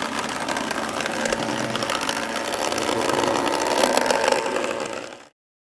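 Model Class 153 railcar running on the layout: a steady whirring of its small electric motor with wheels rattling over the track. It cuts off abruptly about five seconds in.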